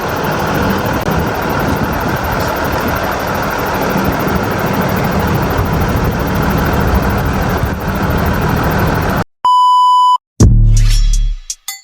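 A steady rushing noise with a low rumble, like wind or road noise, that cuts off abruptly about nine seconds in. A single pure electronic beep follows, then electronic music with a drum machine begins near the end.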